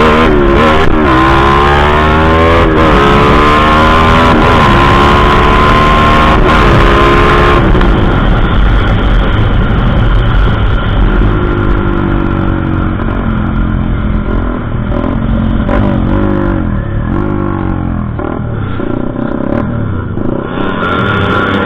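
Motorcycle engine revved repeatedly, its pitch climbing and dropping with each blip of the throttle while it is being tuned. The revs come quickly for the first several seconds, then continue less sharply to the end.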